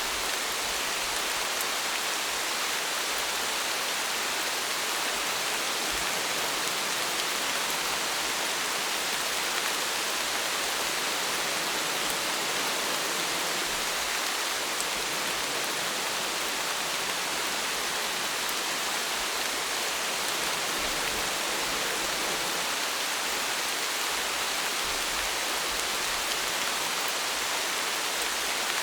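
Steady rain falling in a constant even hiss, with fine drops pattering throughout.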